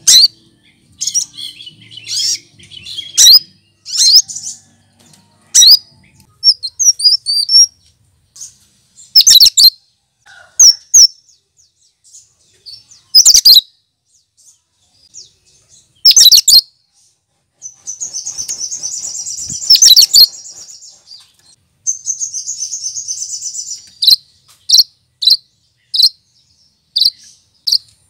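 Cucak kinoy singing a loud, varied song of sharp high calls and whistles. It includes long buzzy trills past the middle and a run of short repeated notes near the end, the mimicked phrases of other birds' songs that this species is kept for.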